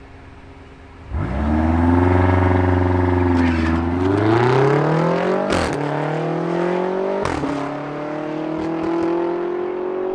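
BMW X5M's twin-turbo V8 launching hard from the line about a second in, then revving up through the gears. The pitch drops sharply at two upshifts, and the engine climbs again after each one.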